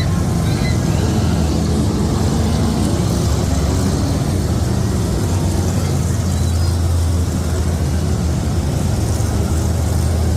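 Monster truck engine running loudly and steadily.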